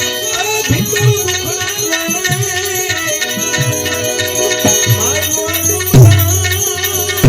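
Gujarati devotional folk music (santvani bhajan accompaniment): a wavering melodic line over shaker-like percussion and drum strokes, with a heavy drum hit about six seconds in.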